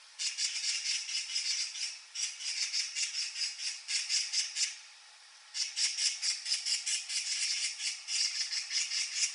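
Eurasian magpie chattering: runs of rapid, harsh rattling calls, broken by short pauses about two and five seconds in.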